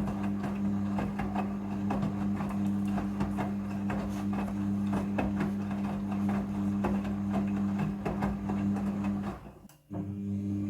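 Front-loading washing machine running a rinse with a stuffed doll inside: a steady motor hum with irregular clicks and knocks from the tumbling drum. Near the end the sound drops out for a moment, then resumes.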